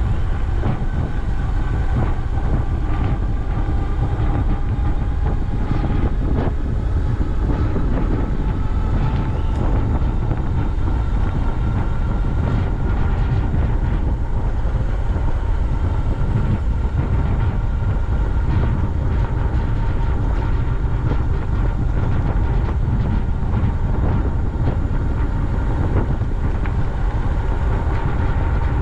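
Steady low rumble and wind noise from a bicycle ride on a paved trail, with a faint whine that slowly rises in pitch.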